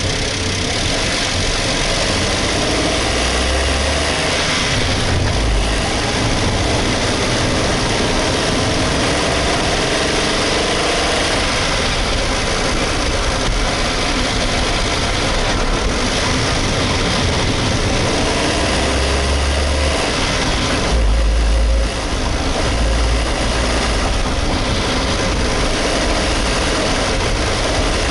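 Suzuki Hustler's small three-cylinder engine running close up, its pitch wavering up and down in the first ten seconds or so, then steady. The owner blames a rattle at about 2,200 rpm on a loose exhaust manifold heat cover.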